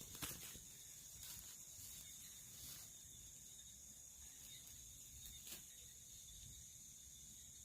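Night insects such as crickets chirring in a steady high thin tone, with a few faint clicks or rustles scattered through.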